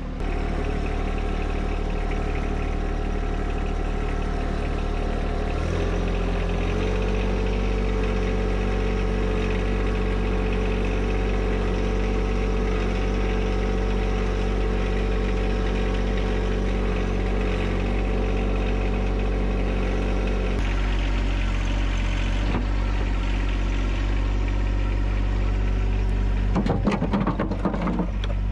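John Deere 1025R compact tractor's three-cylinder diesel engine running steadily. Its engine speed steps up about six seconds in and shifts again around twenty seconds. A short stretch of rough, irregular noise comes near the end.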